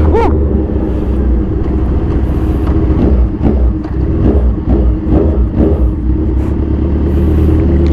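Kawasaki Z1000 Sugomi's inline-four engine running loud through an aftermarket exhaust while under way. The note dips and picks up several times about three to six seconds in.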